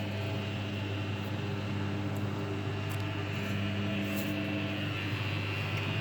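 Hoover washing machine running through its first rinse: a steady low hum with a higher tone that comes and goes, stopping about three seconds in and returning soon after.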